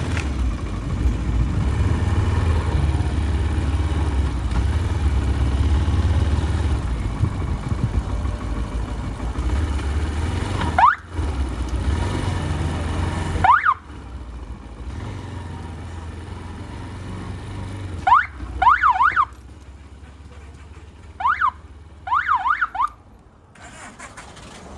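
Low engine rumble of a motorbike moving through street traffic, cutting out abruptly several times. Later come several groups of short, quick whoops that rise and fall in pitch, like an electronic siren or alarm chirping.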